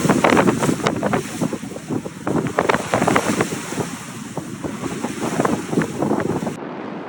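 Wind buffeting the microphone over the rush and splash of sea waves around a sailing boat, in irregular surges. The sound changes abruptly near the end.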